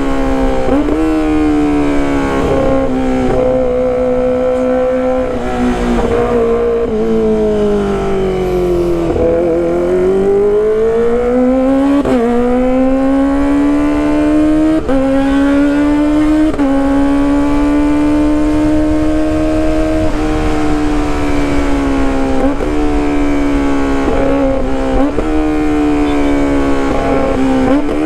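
Kawasaki ZX-25RR's 250 cc inline-four engine through a loud aftermarket exhaust, ridden at high revs. The pitch holds high, sinks slowly through the middle as the bike slows, then climbs back, with several sudden jumps in pitch along the way.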